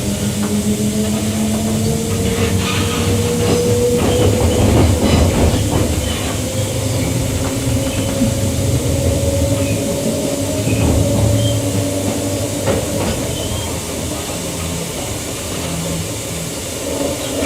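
Queensland Rail EMU electric train running, heard from inside the carriage: a steady motor whine that slowly rises in pitch over the first few seconds, with the wheels clicking over rail joints.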